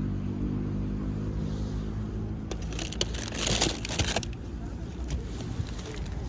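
A vehicle engine runs nearby with a steady low hum. About two and a half seconds in, a loud burst of rustling, crinkling noise lasts a little under two seconds.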